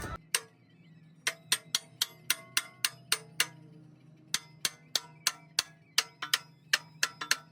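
Light hammer strikes on metal, each ringing briefly, about three to four a second in irregular runs with short pauses between. A faint steady low hum lies under them.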